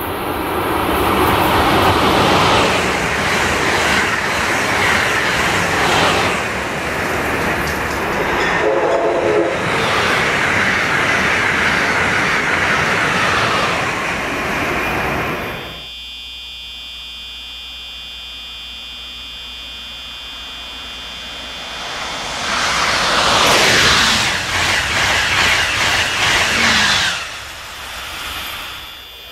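Amtrak Acela high-speed electric trains passing at speed: a long rush of wheel and air noise with a short horn blast about nine seconds in. After a sudden cut it is quieter and steady, then a second train rushes past with a falling pitch and fades.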